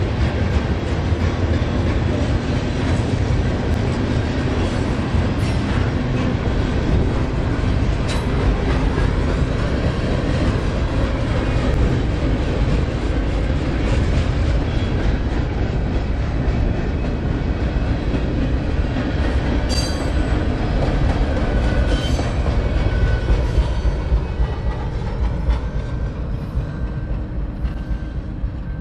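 Canadian Pacific mixed freight train's cars rolling past on the rails: a steady rumble and clatter of wheels on track with scattered clacks, fading over the last few seconds as the tail end passes and draws away.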